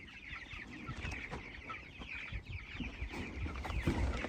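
A flock of chickens inside a chicken tractor clucking and calling over one another in many short, quick calls, with a few low thumps.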